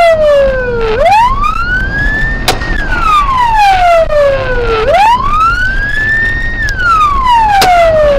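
Police car siren in a slow wail, the pitch sweeping up and then gliding back down about once every four seconds, over low engine and road rumble.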